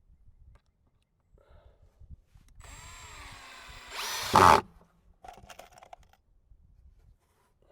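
Power drill driving a screw into a wooden cover board: the motor whines for about two seconds, speeds up and gets much louder as the screw seats, then stops abruptly.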